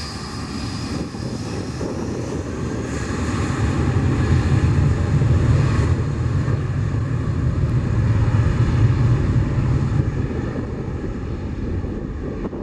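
Aircraft engines of an airplane passing close by: a deep rumble with a steady high whine, growing louder a few seconds in and easing off near the end.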